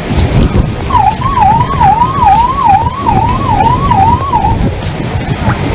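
Siren sounding a fast rising-and-falling wail, about two cycles a second, from about a second in until about four and a half seconds. Under it runs a steady low rushing noise.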